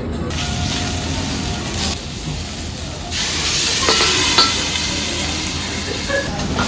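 Food sizzling on a hot griddle, a steady hiss that swells louder about three seconds in.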